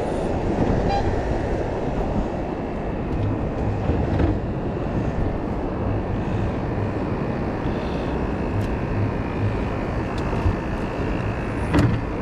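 Fishing boat's engine running steadily at sea, a continuous low rumble mixed with wind and water noise, with a few faint knocks.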